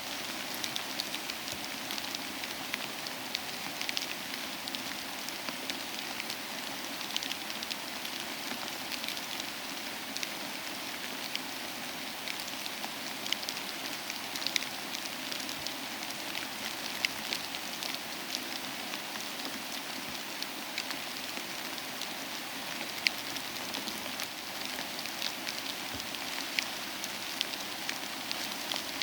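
Soft steady rain hissing, mixed with the irregular crackling and popping of a wood fire in a fireplace.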